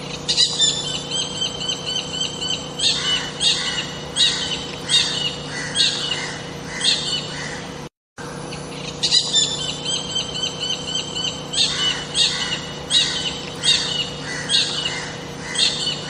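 A bird singing: a run of high, thin notes followed by about six short repeated phrases, roughly two-thirds of a second apart. The same stretch of song plays twice, broken by a brief gap near the middle, over a steady low hum.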